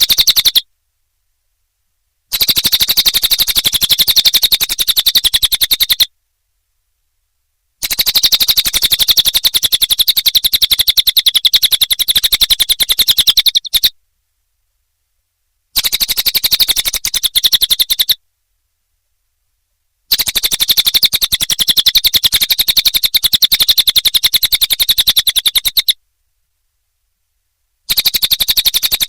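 Cililin bird singing: bouts a few seconds long of a very fast, evenly repeated high chattering trill, broken by short gaps of dead silence between bouts.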